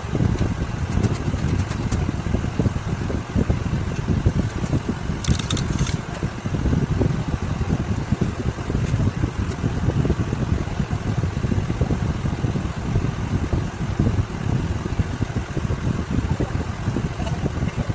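Ceiling fan running steadily, with a low rumble.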